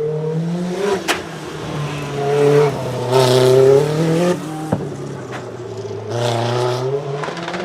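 Rally car engine revving hard under acceleration, its pitch climbing and then dropping sharply at each gear change. There is a sharp crack about a second in and another just under five seconds in.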